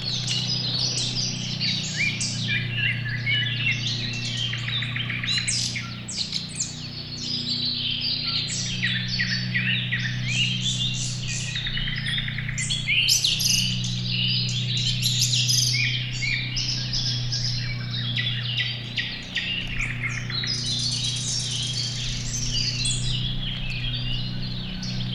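Many small songbirds chirping and trilling at once, a dense, continuous chorus of short high calls, over a low steady hum.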